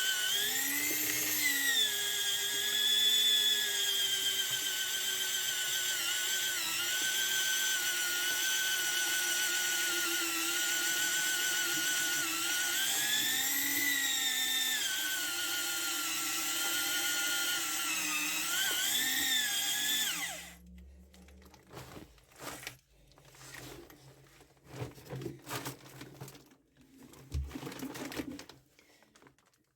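Hand-held electric drill boring anchor-point holes, its motor whine dipping and recovering in pitch as the bit bites under load. It cuts off about two-thirds of the way in, winding down briefly, and is followed by scattered knocks and clatter.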